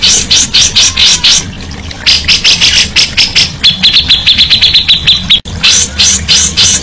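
Songbird singing a fast run of sharp, high repeated notes, with a rapid trill of about ten notes a second near the middle that cuts off abruptly.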